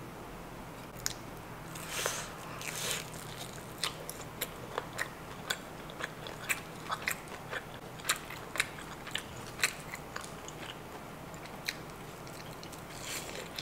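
Crunchy bites and close-up chewing of a breaded, fried shrimp cutlet soaked in creamy sauce. There is a bite about two seconds in and another near the end, with irregular sharp clicks from the chewing in between.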